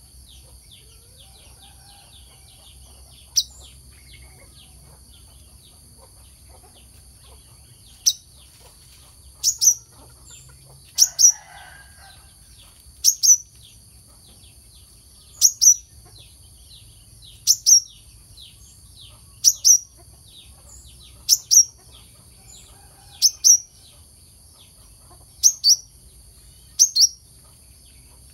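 Brown-throated sunbird (kelicap mayang kelapa) calling: sharp, high double chirps repeated about every two seconds, after a single chirp a few seconds in. A steady high hiss runs behind it.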